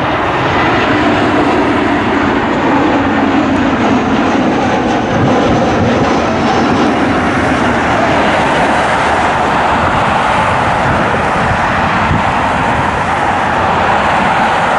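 Jet airliner engines running, a loud, steady rush of noise, with a faint tone in it that sits lower at first and higher in the later part.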